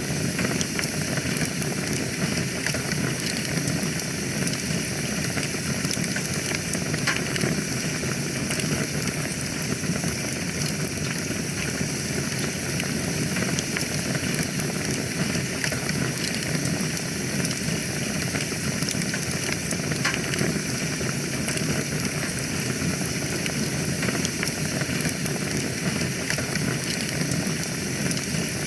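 Wood fire burning in a fireplace: a steady, even hiss of flame with frequent small crackles and pops.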